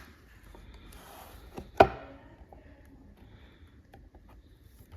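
Faint handling noise, small clicks and rustling, with one sharp knock about two seconds in.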